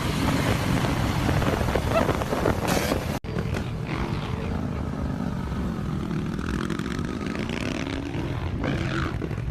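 Motorcycle engines running and changing pitch, mixed with rushing wind noise, with a brief dropout about three seconds in.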